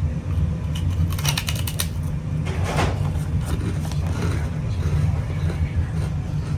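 Steady low rumble of a vehicle running, with a quick run of sharp clicks about a second in.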